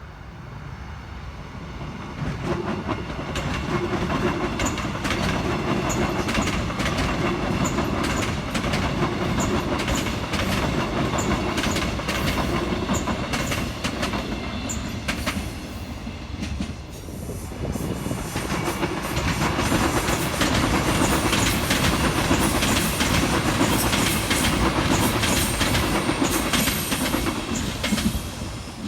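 A train passing close by, its wheels clacking rhythmically over the rail joints. The sound builds in the first few seconds, eases briefly a little past halfway, then comes back just as loud before fading at the end.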